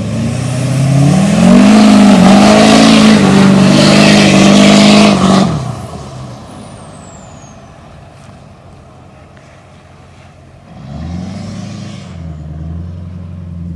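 Lifted Duramax 6.6-litre V8 turbodiesel pickup on a sandy trail, revved hard and loud for about five seconds under a heavy rushing noise. It then backs off to a low engine note as a high whistle falls away. About eleven seconds in it picks up revs again, more gently.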